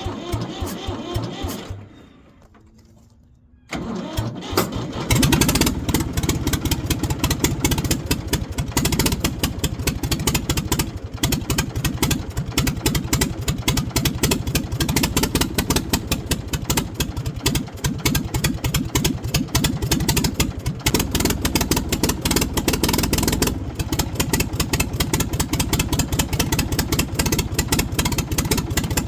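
1973 Ford 4500 industrial backhoe's diesel engine turning over. It drops away for about two seconds, then catches and runs steadily: a dead engine coming back to life on a start attempt.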